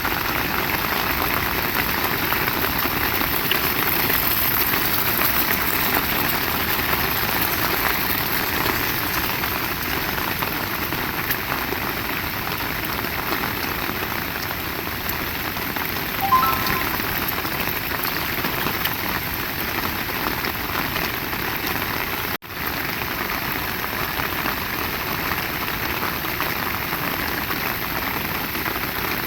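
Heavy rain falling steadily, an even hiss of many drops on surfaces. About halfway through there is a short pitched sound, and near three quarters through the sound drops out for an instant.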